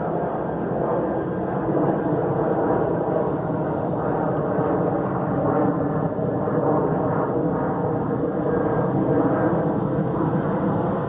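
A loud, steady rumbling drone from the sky, of unknown origin, holding level without breaks.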